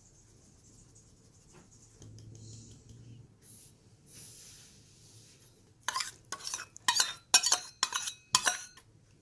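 Metal kitchen utensils clinking: after a few quiet seconds, about six sharp knocks with a short metallic ring in quick succession.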